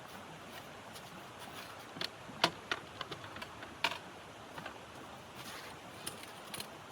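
A steady hiss with scattered sharp clicks and knocks, bunched about two to four seconds in, the loudest two about a second and a half apart.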